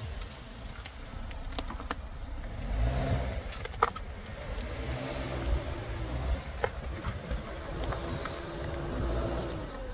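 A car driving, heard from inside the cabin: steady road and engine rumble, the engine's pitch rising and falling a few times as it pulls away, with scattered sharp clicks and knocks.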